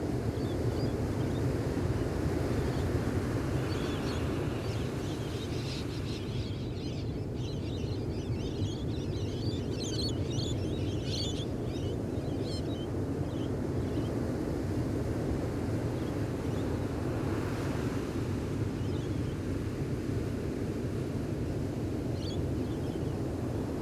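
Gentle ocean waves washing steadily on a beach, with birds chirping. The chirping comes in a busy patch about a third to halfway through, with a few more calls near the end.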